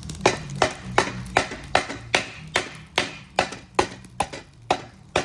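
Steady, repeated hammer blows, about two and a half a second, knocking a burnt rubber bush out of a BMW E36 subframe.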